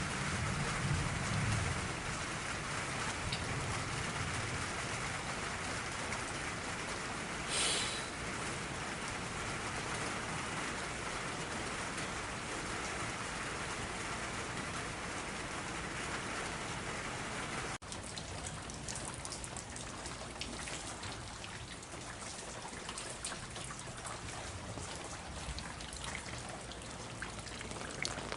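Heavy monsoon rain pouring down steadily, with a low rumble in the first couple of seconds and a brief louder hiss about eight seconds in. About two-thirds of the way through the sound changes abruptly to a crisper patter of many drops striking close by.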